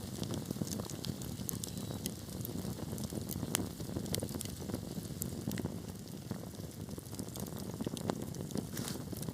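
Wood fire burning, with a steady low rumble and hiss under many sharp, irregular crackles and pops.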